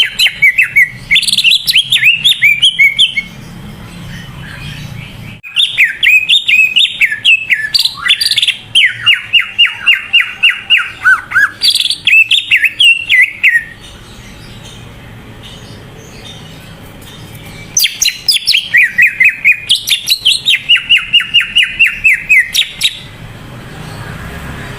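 Cucak ijo (green leafbird) in full song (gacor), singing loudly in three bouts of fast, repeated chirping notes, with a few seconds' pause between bouts.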